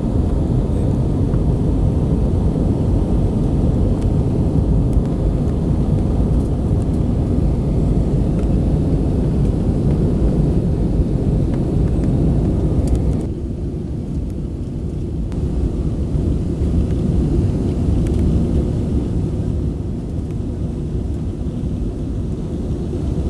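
Airliner cabin noise during flight: the steady low rumble of jet engines and rushing air heard from inside the passenger cabin, easing slightly in level about halfway through.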